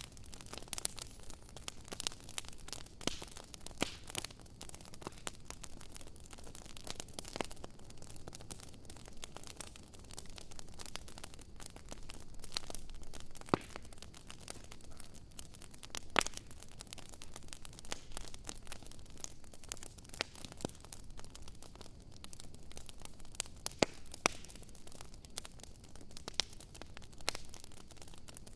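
Campfire crackling, with irregular sharp pops and snaps over a steady hiss; a few pops stand out louder than the rest.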